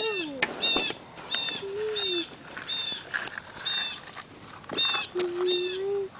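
Crow cawing over and over, a string of harsh caws coming a little faster than one a second.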